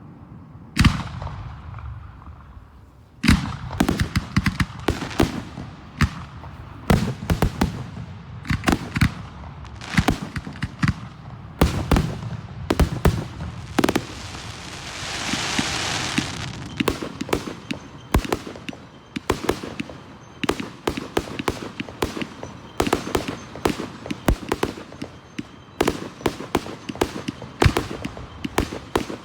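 Aerial fireworks display: one loud bang about a second in, then, from about three seconds, a rapid run of sharp reports and crackles with a hissing burst partway through.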